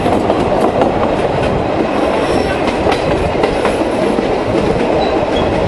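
Passenger coach of a metre-gauge tourist train running along the line, its wheels rumbling steadily on the rails and clicking irregularly over the rail joints.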